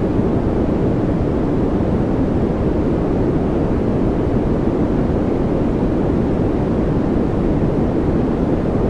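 Steady, unchanging noise track of the kind played for focus and relaxation, a deep even rush with most of its weight in the low range and little hiss up top.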